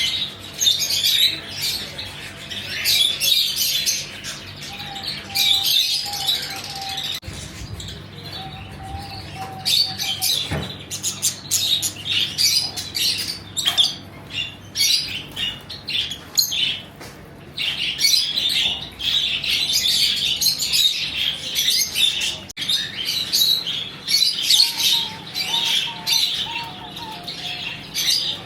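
Many caged birds chirping and tweeting at once, a dense, continuous chorus of overlapping high calls.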